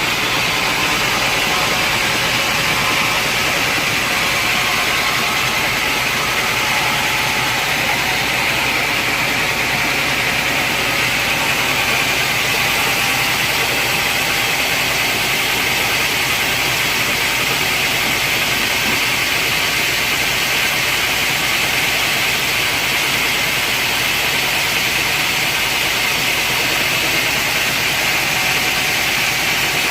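Sawmill machinery running with a steady, unbroken noise, likely the saw working through a teak log.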